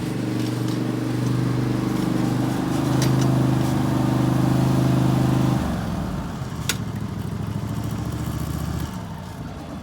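Husqvarna R322T lawn tractor engine running steadily, then dropping to a lower, quieter speed a little past halfway, and fading out near the end.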